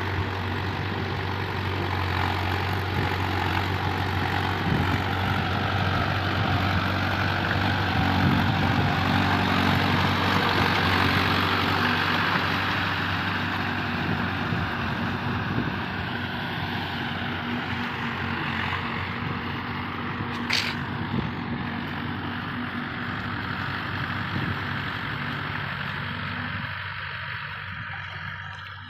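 Mahindra 415 tractor's diesel engine running steadily, with one brief high-pitched sound about two-thirds of the way through; the engine sound fades near the end.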